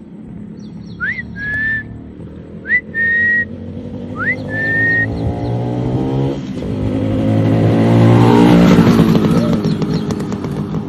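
Three short whistles, each sliding up and then holding a note, followed by a motorcycle engine that rises in pitch and grows louder, loudest about eight seconds in, then eases a little.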